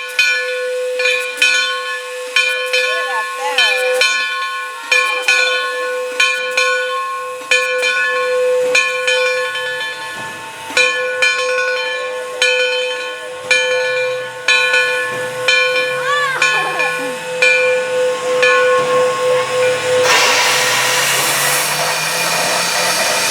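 Locomotive bell ringing steadily, its clapper striking about once or twice a second, then a loud hiss of released steam that starts suddenly near the end.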